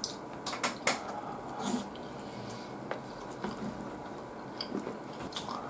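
Quiet eating sounds from a person chewing: wet chewing and smacking with a few sharp clicks scattered through.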